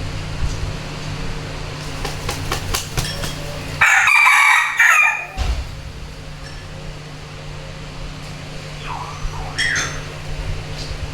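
Rooster crowing: one loud crow about four seconds in, lasting about a second and a half, with a fainter short call near the end.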